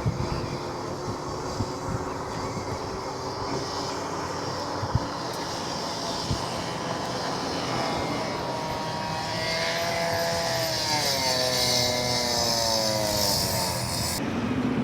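Wind and road noise from riding an e-bike in traffic, with a few bumps early on. About two thirds of the way through, a motor vehicle passes close by, its engine note falling in pitch and its tyre hiss swelling as it goes past.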